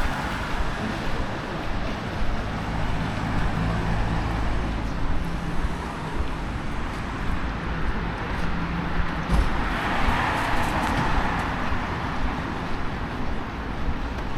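Street traffic on a wet city road: a vehicle engine runs with a steady low hum, then a swell of tyre hiss about ten seconds in as a vehicle passes.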